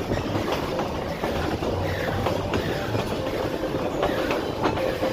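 Narrow-gauge passenger train running, heard from an open-sided car: a steady rumble and clatter of wheels on the rails, with faint thin squeals coming and going.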